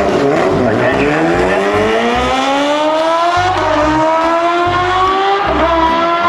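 Racing engine accelerating hard, its pitch climbing steadily over several seconds with two brief dips along the way.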